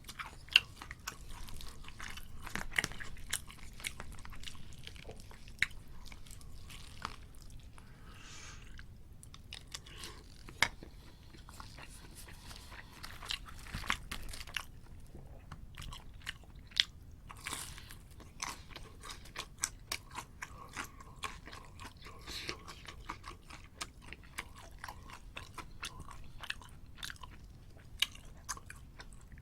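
A person chewing and biting food close to the microphone, with many sharp crisp clicks all through.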